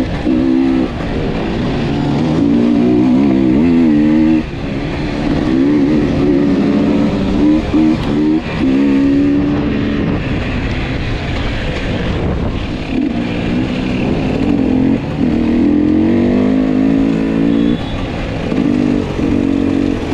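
Enduro dirt bike engine heard on board the bike, revving up and down again and again as the throttle is worked along the trail.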